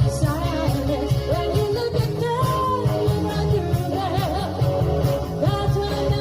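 Live cover band playing an 1980s pop-rock song, a lead vocal sung over the full band.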